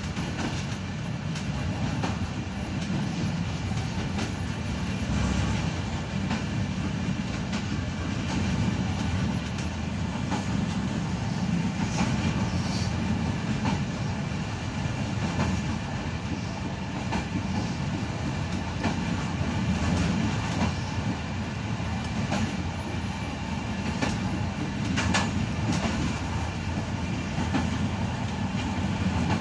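Passenger train running along the track, heard from the rear of the last carriage: a steady rumble of wheels on rails, with a few sharper clicks.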